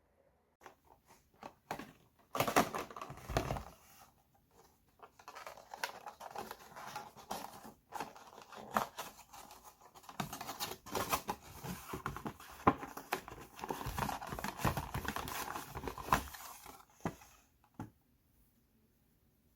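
Close-up hands handling toys and their packaging: irregular crinkling, tearing and rustling mixed with sharp clicks and taps, stopping near the end.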